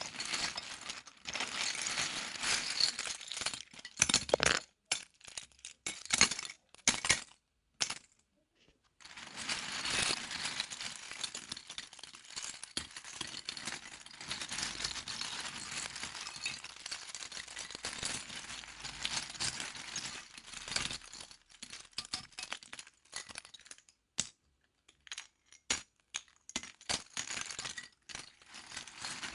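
Loose plastic Lego pieces rattling and clinking as they are handled, a dense run of small clicks with a short break about eight seconds in.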